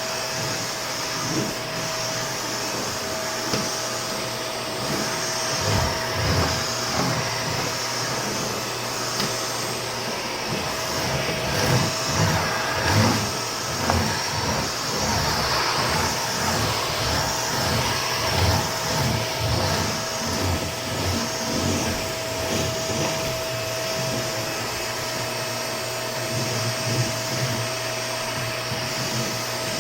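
Vacuum cleaner running steadily, its motor giving a constant whine over a rushing hiss, with irregular low thuds and knocks throughout.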